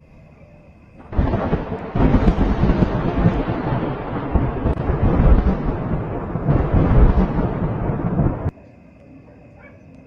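Thunder rolling in a long, loud rumble that starts suddenly about a second in, swells twice more and cuts off abruptly near the end.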